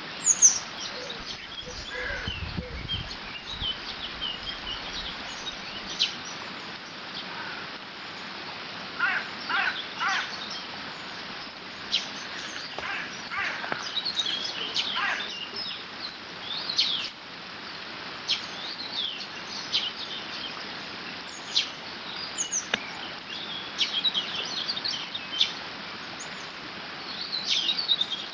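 Many short bird chirps and calls scattered throughout, over a steady rush of water flowing through a beaver dam. A brief low rumble about two seconds in.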